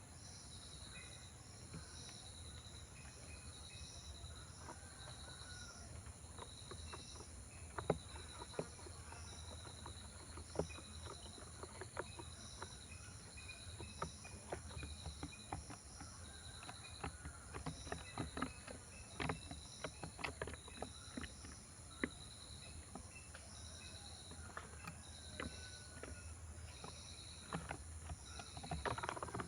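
Birds feeding, with many irregular sharp clicks and taps of beaks pecking at food from about a quarter of the way in. Behind them a high chirp repeats about three times every two seconds.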